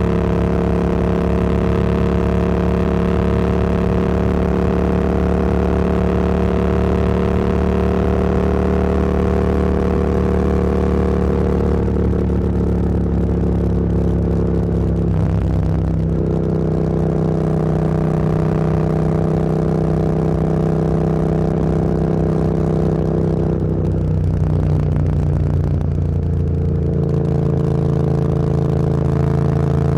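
Motorcycle engine running steadily while riding, with the engine note stepping slightly lower about halfway through and again a few seconds before the end.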